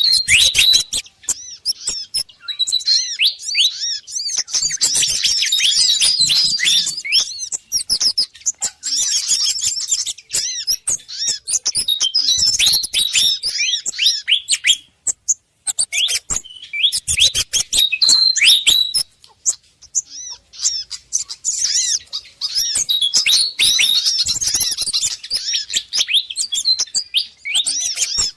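Bird-lure recording of agitated, rapid chirping and scolding calls: pied fantail calls mixed with the calls of other small songbirds (sogon and kemade), in dense overlapping bursts with a couple of short pauses.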